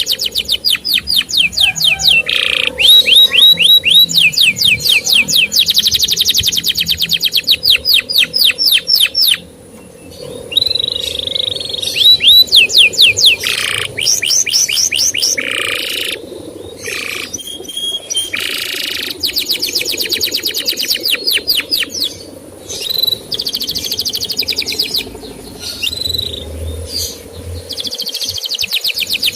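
Male canary singing: fast trills of repeated high, sweeping chirps in phrases several seconds long, broken by short pauses and single notes.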